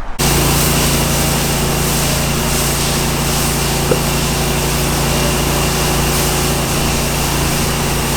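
Engine-driven pressure washer running steadily, its small engine and pump giving an even drone under a wide hiss. One brief tick about four seconds in.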